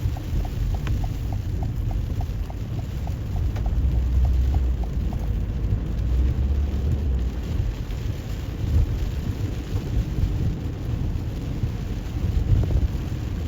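Rain on a moving car with a steady low rumble underneath. A quick, regular ticking runs for the first few seconds and stops about five seconds in.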